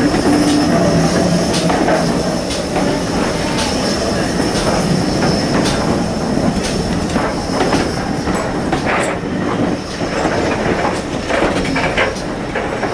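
Passenger coaches of a steam-hauled train rolling past at low speed, a steady rumble with wheels clicking over rail joints and a thin, steady high wheel squeal.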